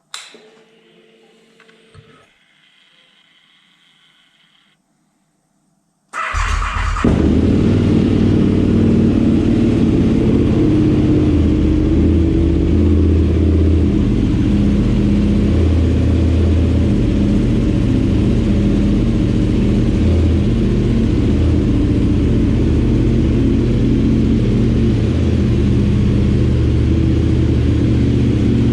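KTM 990 Supermoto's LC8 V-twin firing up about six seconds in, after a few faint clicks and whirs, then running steadily and loud through carbon slip-on mufflers with the dB killers removed.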